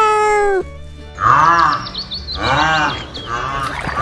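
A series of pitched animal calls over background music: one longer cry at the start, then three short arching cries, with quick high chirps running above them.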